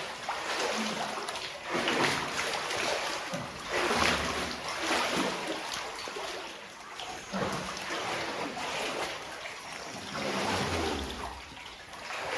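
Water sloshing and splashing in repeated surges as people move through the water of a flooded mine passage.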